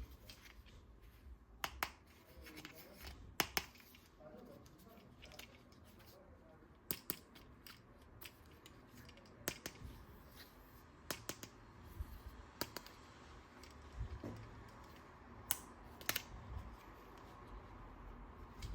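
Irregular sharp clicks and snaps from handling plastic toy parts and packaging, with small rustles between them.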